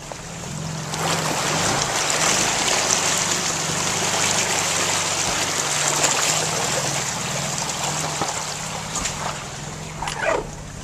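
Water rushing and splashing as a 2010 Jeep Wrangler JK Sport drives through a creek, over the low, steady running of its V6 engine through a Flowmaster exhaust. The water noise builds about a second in and eases near the end.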